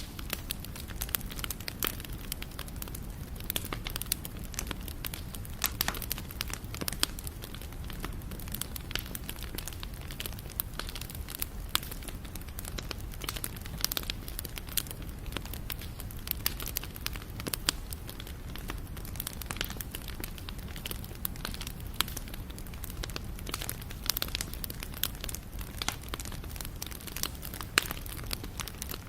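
Wood bonfire burning, crackling with frequent irregular sharp pops and snaps over a steady low rumble of the flames.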